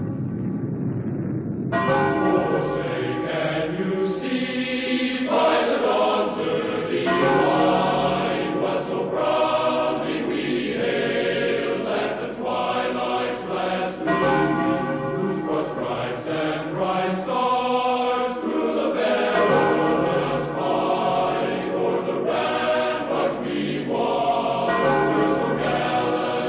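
A bell's ringing dies away, then a choir comes in about two seconds in, singing held chords.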